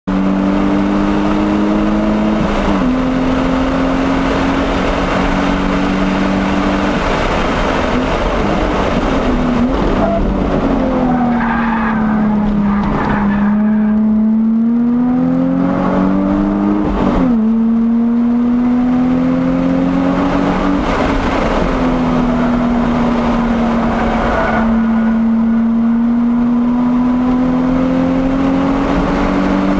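Nissan 350Z's 3.5-litre V6 under hard track driving, heard from inside the car with road and wind noise. The engine note climbs with revs and drops sharply at upshifts, a few seconds in and again about two thirds of the way through. In the middle it falls away as the car slows for a corner, then rises again under acceleration.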